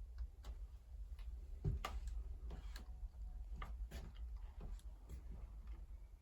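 A dozen or so light, irregular clicks and taps over a low steady hum, with one louder knock about one and a half seconds in.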